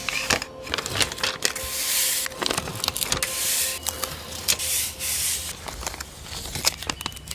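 Paper being handled for a journal collage: repeated rustling and crinkling, with scattered small taps and clicks.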